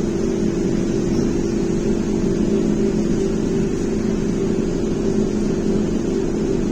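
A Belkommunmash BKM-321 trolleybus heard from inside the cabin: a steady electric hum with two constant tones, one low and one somewhat higher, over a low running rumble.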